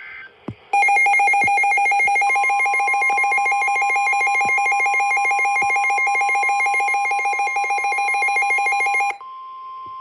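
A weather alert radio's loud, rapidly pulsing, warbling alarm starts about a second in and cuts off suddenly near the end. Under it, from about two seconds in, runs the steady single-pitched NOAA Weather Radio warning alarm tone, which carries on after the alarm stops. Together they announce a severe thunderstorm warning being broadcast.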